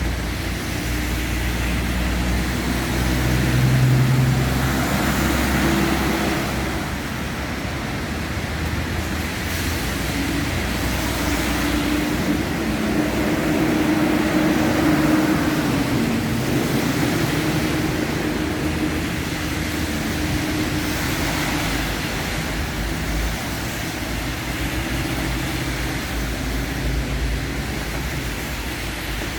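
Road traffic: the steady noise of cars running on a street, swelling as vehicles pass about 4 seconds in and again about 15 seconds in.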